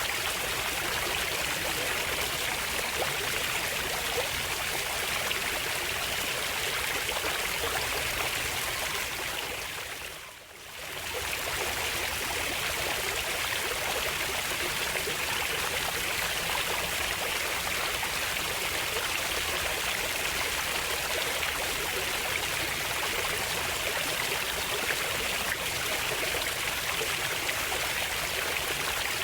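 Steady flowing water of a stream, an even rushing sound that briefly fades down and back up about ten seconds in.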